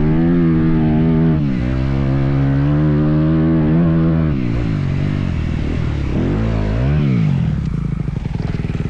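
Motocross bike engine under changing throttle. The revs are held with small rises and falls, dip briefly about a second and a half in, then drop and are blipped up twice near the middle. It ends running low with an even, pulsing beat.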